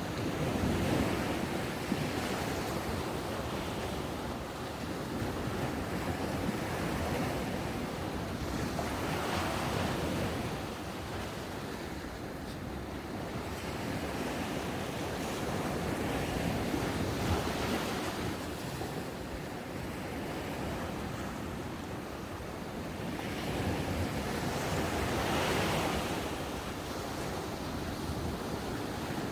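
Ocean surf washing onto the shore. Each wave swells and fades in turn, about four in a row, roughly eight seconds apart.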